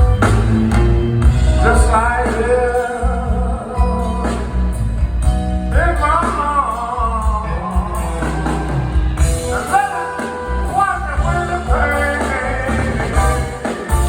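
Live blues band playing a slow song, with a bending, wailing lead melody over a steady bass.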